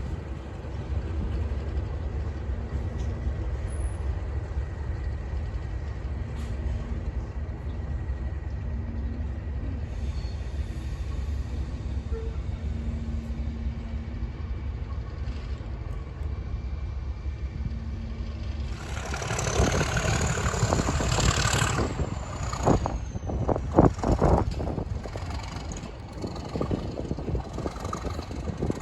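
Class 37 diesel locomotives, English Electric V12 engines, working hard at speed: a steady deep rumble with train running noise. About two-thirds of the way in, a louder rush of noise comes in, followed by a run of sharp knocks from the wheels.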